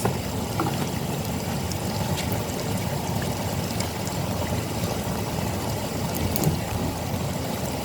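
Tap water pouring steadily from a hose into the wash tub of a twin-tub washing machine as it fills.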